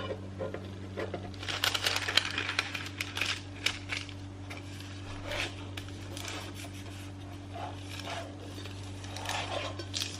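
Kitchen handling sounds: scattered clinks of dishes and utensils and some rustling, busiest in the first few seconds and again near the end, over a steady low electrical hum.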